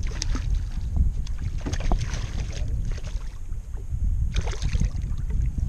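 Wind buffeting the microphone, with water splashing in short bursts a few times.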